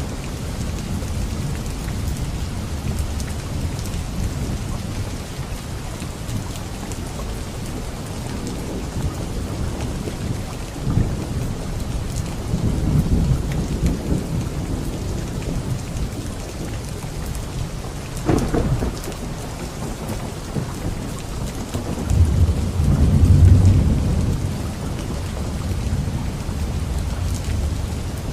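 Steady heavy rain with rolling thunder: low rumbles swell up near the middle and again near the end, with a sharper crack about two-thirds of the way through.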